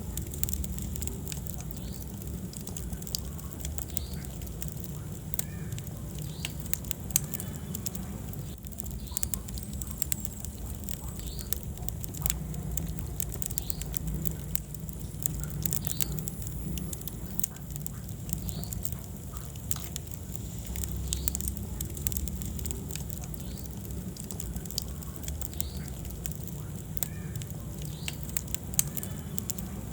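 Wood fire burning in a fireplace: a steady low rumble of flames with scattered crackles and pops, a couple of them louder, about seven seconds in and near the end.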